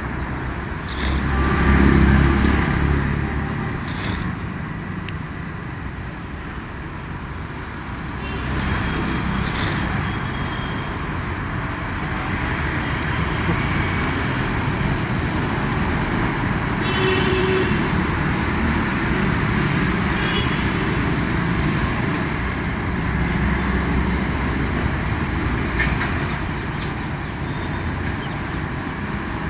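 Outdoor street traffic: a steady road rumble, swelling as vehicles pass about two seconds in and again later on.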